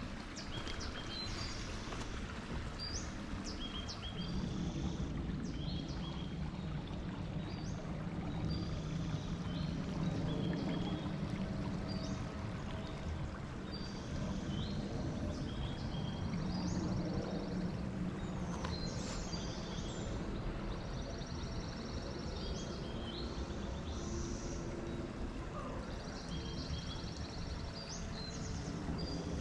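Small birds calling, short chirps and trills repeated every second or so, over a steady low background noise.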